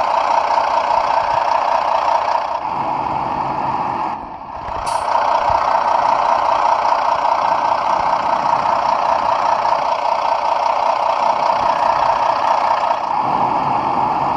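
Scania-engined coach running steadily, with a short high hiss about five seconds in.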